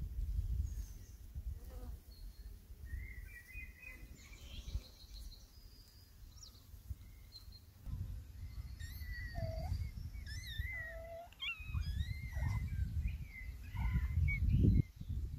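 Small birds chirping and twittering in quick, short calls, over a gusty low rumble of wind on the microphone.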